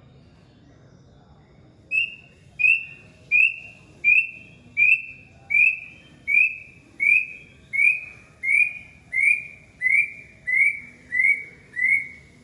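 A bird calling a long series of clear whistled notes, about one every 0.7 seconds, starting about two seconds in. Each note starts sharply and tails off slightly downward, and the series drifts a little lower in pitch as it goes on.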